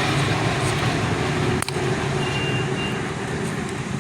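Steady road traffic noise with a low engine hum, and a single sharp knock about one and a half seconds in.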